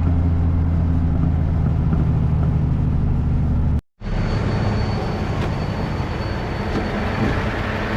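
Heavy truck's diesel engine droning steadily while driving, with road noise. The sound drops out for a moment about four seconds in, then goes on as steadier road noise with more hiss.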